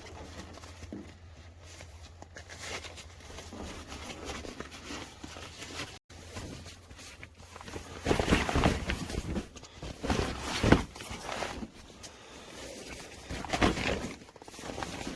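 Irregular rustling and handling noises of camping gear being moved about, louder from about eight seconds in, after a short break in the sound about six seconds in.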